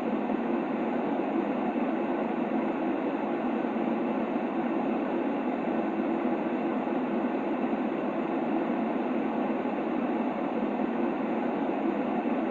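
Steady, unchanging white noise played as a baby sleep aid: an even hiss-like rush weighted toward the low-middle range, with little deep bass or high treble.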